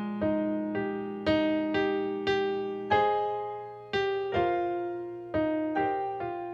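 Solo piano playing a slow, gentle piece: notes and chords struck about twice a second, each ringing and fading, with one longer held chord midway.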